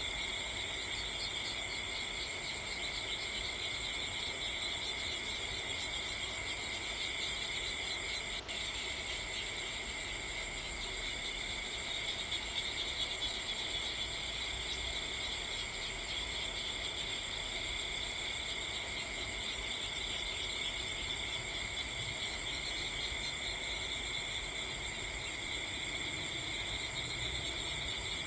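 A steady, shrill chorus of night insects, with one sharp click about eight seconds in.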